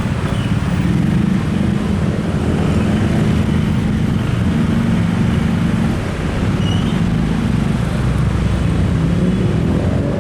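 Train passing close by: a steady, loud low rumble with an engine drone, with no break or let-up.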